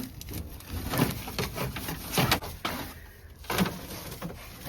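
A few short bursts of rattling and scraping, about a second apart, from parts of a van's interior being handled and pulled at during a strip-out.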